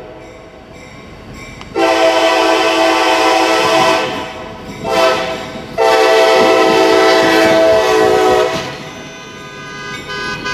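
Diesel locomotive air horn sounding a long blast, a short one and a final long one: the end of the long-long-short-long grade-crossing signal. The rumble of the passing light locomotives runs underneath.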